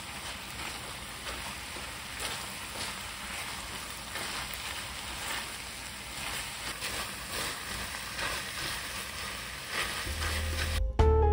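Gochujang pork and minari sizzling in a stainless steel pan over high heat, stirred and tossed with a silicone spatula so the sizzle comes in repeated surges with each stroke. Music with piano-like notes comes in near the end, louder than the frying.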